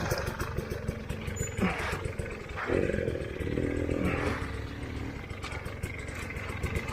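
Trail motorbike engine running and revving up and down as it is ridden over rough ground, with a stronger burst of revs about three seconds in and scattered knocks from the bike over the terrain.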